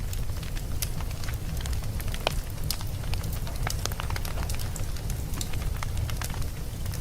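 Wood fire burning in a fireplace, crackling and popping in quick, irregular snaps over a steady low rumble of the flames.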